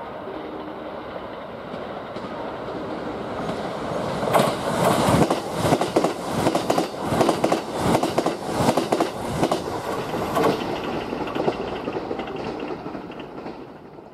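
Kintetsu 23000-series Ise-Shima Liner limited express running through the station at speed. A rumble grows as it approaches, then about four seconds in comes a rapid run of wheel clacks over the rail joints as the cars go by, and the sound dies away near the end.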